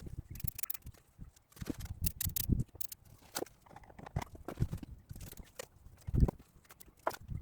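Irregular clicks and knocks with a few dull thuds, scattered unevenly.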